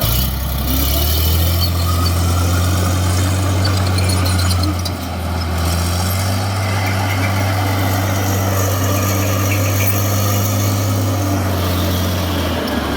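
Heavy diesel engine of a construction machine running steadily with a deep low hum, dipping briefly about five seconds in.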